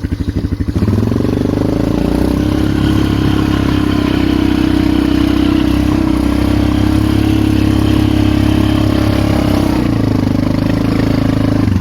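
Polaris Magnum 425 ATV's single-cylinder four-stroke engine revving up about a second in and held at steady high revs under load while digging through deep snow, then dropping back near the end.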